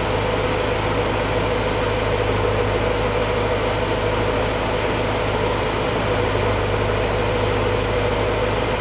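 1953 Willys CJ-3A's L-head four-cylinder engine idling steadily at operating temperature, running a little smoother now that the head and pistons are warm.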